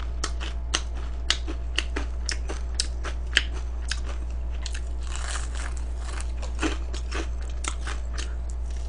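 Close-up chewing of crispy fried chicken, with sharp crunches about twice a second at first, a denser crunch about five seconds in, then sparser chewing. A steady low hum runs underneath.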